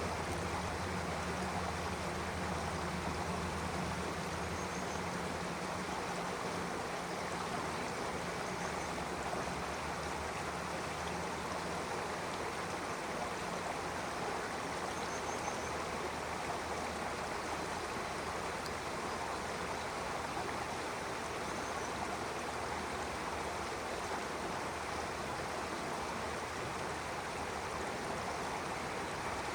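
A stream of running water, a steady even rushing. Faint high chirps, typical of small birds, come a few times, and a low hum underneath fades out in the first several seconds.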